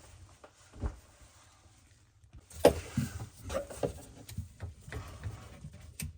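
Scattered knocks and clicks of plumbing parts and tools being handled under a sink. They are sparse in the first half, then come thick and fast, the sharpest knock a little under three seconds in.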